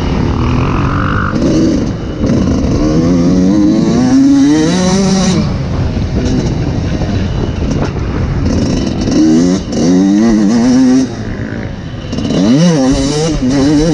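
Suzuki RM125 single-cylinder two-stroke motocross engine revving up and backing off as it is ridden, its note climbing several times and dropping sharply about five seconds in, again around eleven seconds, and once more near the end.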